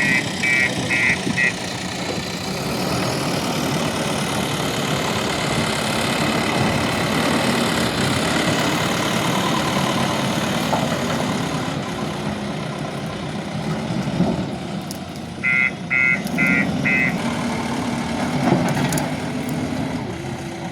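JCB 3DX backhoe loader's diesel engine running steadily. Short runs of rapid electronic beeps, about three a second, come at the start and again near the end.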